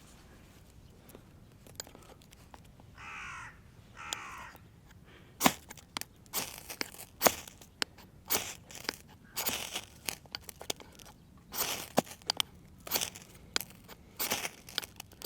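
A crow caws twice, then a run of irregular, sharp crunching and scraping strokes follows.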